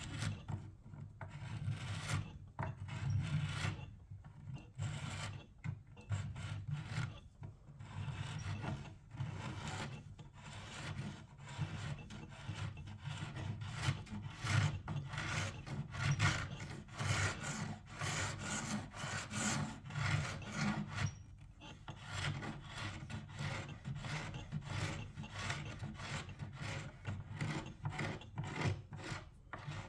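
Old paint and finish being stripped by hand, with repeated rasping, rubbing strokes at about two a second.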